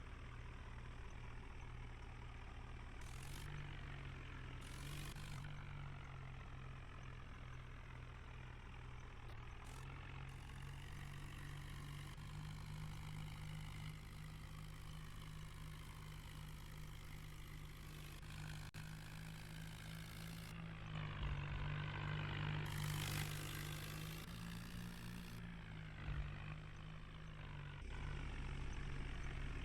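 New Holland tractor's diesel engine running steadily with a low hum, louder for the last third.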